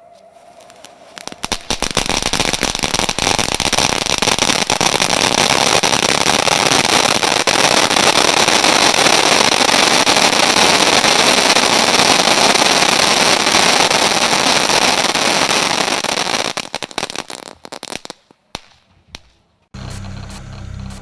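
Volt! Fireworks "#WATT Crackling Fire" crackling firework going off. It starts with a few pops, builds at once into a dense, continuous crackle that holds for about fifteen seconds, then thins to scattered pops and stops. Background music comes in near the end.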